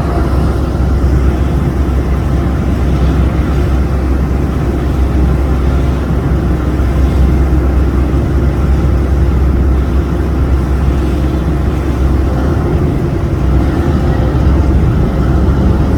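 Boat on the river under way, its engine running with a steady low rumble.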